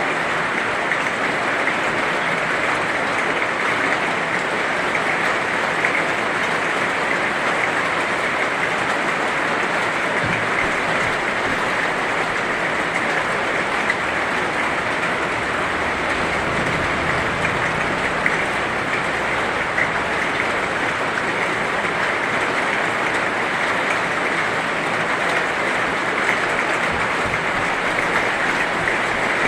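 Heavy rain falling steadily, a dense, even wash of drops with no breaks.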